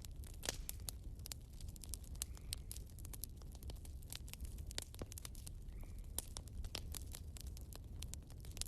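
Firewood burning in a fireplace, crackling with many irregular snaps and pops over a low, steady rumble.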